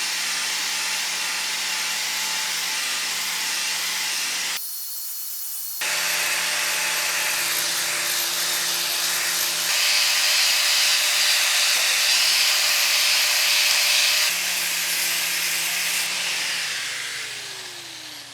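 Angle grinder running against rusted steel, a steady grinding of rust off a steel cart wheel. It winds down near the end with falling pitch.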